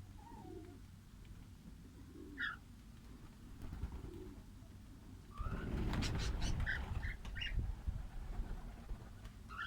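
Lovebirds giving short, sharp chirps every second or two, with a few soft low calls between them. A louder stretch of rustling noise runs through the middle, about halfway in.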